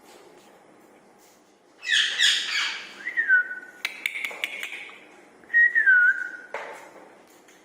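Rose-ringed parakeet giving a harsh burst of calls about two seconds in, then two whistled notes that dip in pitch, with a few sharp clicks between them.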